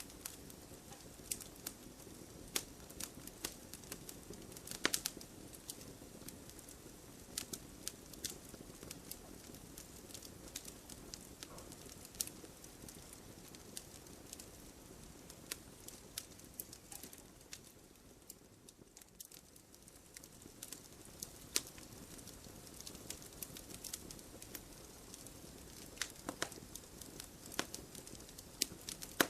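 Wood fire burning in a fireplace: irregular sharp crackles and pops of the logs over a soft steady hiss.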